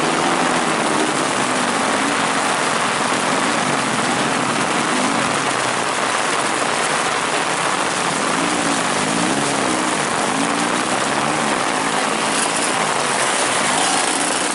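Heavy rain falling steadily. Underneath it, motorcycle engines rev faintly, rising and falling in pitch, most clearly in the second half.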